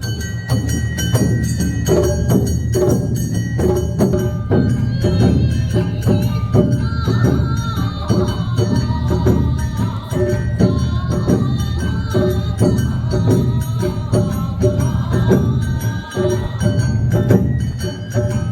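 Awa Odori festival band music: drums and a clanging hand gong beat out the dance rhythm under shamisen and other pitched instruments. A high, wavering bamboo-flute melody comes in about four seconds in.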